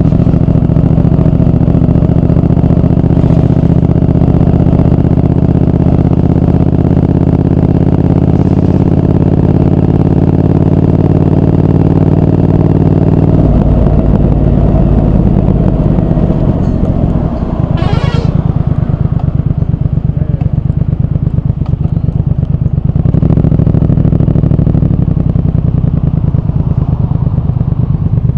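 Triumph Speed Twin 1200's parallel-twin engine running, its pitch easing slowly down, then dropping abruptly to a low, slow throb about thirteen seconds in. A brief high rising sound comes around eighteen seconds in, and the engine picks up a little later on.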